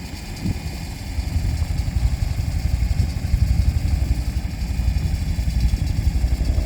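A vehicle engine running steadily with a rough low rumble. It cuts off suddenly near the end.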